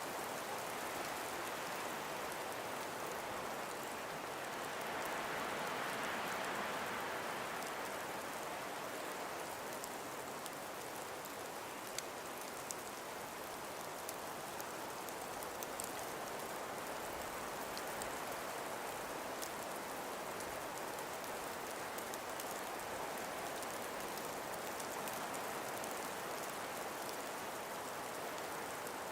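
Calm breeze blowing through ice-covered forest trees as an even rushing noise, swelling in a gust about five seconds in, with scattered faint ticks.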